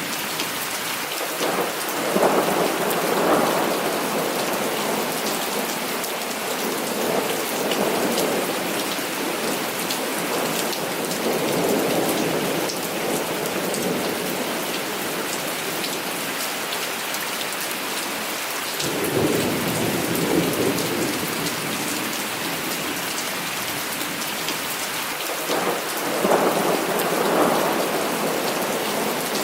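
Heavy rain falling steadily, with repeated rolls of thunder. The loudest rumbles come about two seconds in and near the end, with weaker rolls in between.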